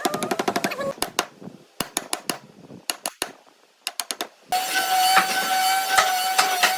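Woodworking tools: a quick run of sharp taps and clicks that thins out to scattered knocks, then a power tool starts about two-thirds through and runs with a steady high whine and hiss.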